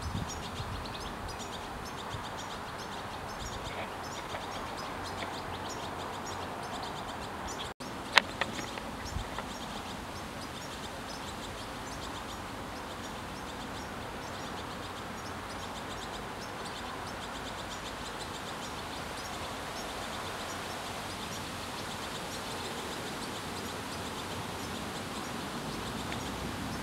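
Small birds chirping and calling repeatedly over steady outdoor background noise, with one sharp click about eight seconds in.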